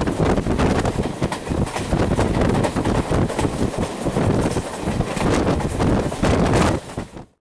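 Wind buffeting the microphone over the running noise of a moving passenger train, heard from an open door of the coach. The sound cuts off suddenly near the end.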